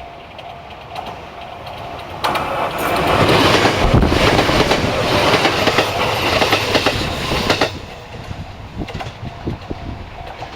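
A train passing close by: its noise rises suddenly about two seconds in and stays loud for about five seconds, with wheels clicking over the rail joints. It drops away near eight seconds, and a few last wheel clicks trail off.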